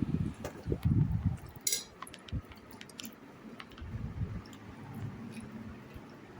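Eating sounds: wet squishing and chewing of rice and curry, with scattered light clinks of plates and bowls.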